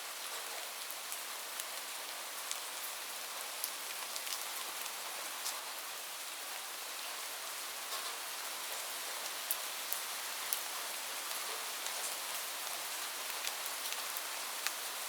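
Steady rain falling, a constant high hiss with individual drops ticking sharply on a surface here and there.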